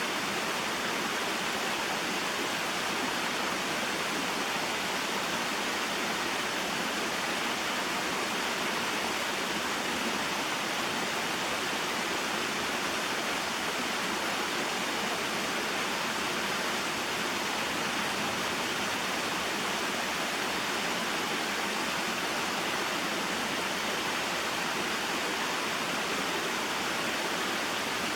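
Small waterfall and mountain stream: a steady, unchanging rush of flowing water.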